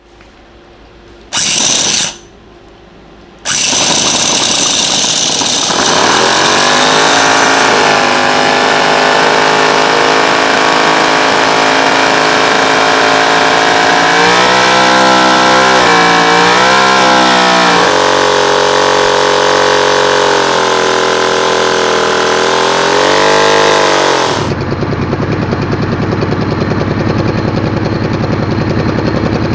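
Toyan FS-V800 28cc four-stroke nitro V8 model engine: a short loud burst about a second in, then the engine catches and runs with a rattly, multi-cylinder note. It revs up and down twice, then near the end the sound changes abruptly to a duller, harsher steady run.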